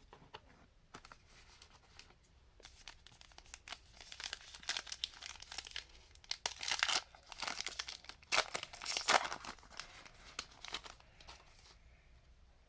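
A 2021 Panini Diamond Kings baseball card pack being torn open, its wrapper crinkling in several bursts from about four to nine seconds in, the loudest near the end of that stretch.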